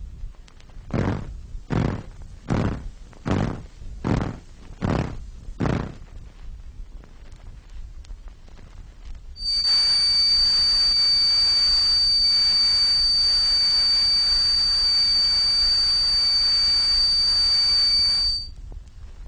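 Synthesizer simulations of tinnitus. First come seven rhythmic pulses of noise, a little more than one a second. After a pause comes a steady high-pitched whistle tone over a hiss, lasting about nine seconds and cutting off suddenly.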